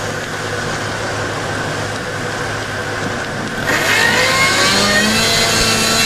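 Motor vehicle engine running steadily, then getting louder and rising in pitch about two-thirds of the way through, as in revving up.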